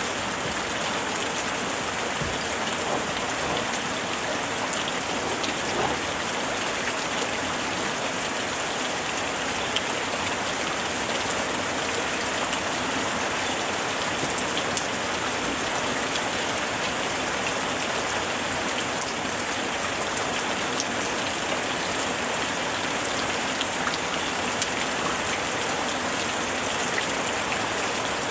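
Steady rain falling on surfaces: a dense, even hiss of raindrops with many small drop ticks scattered through it.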